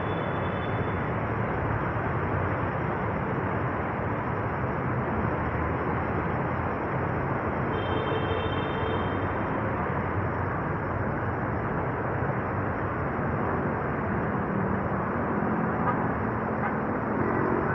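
Steady rushing outdoor noise, even throughout with no distinct events, such as a swollen, fast-flowing river, wind on the microphone and distant traffic would make; a faint brief tone sounds about eight seconds in.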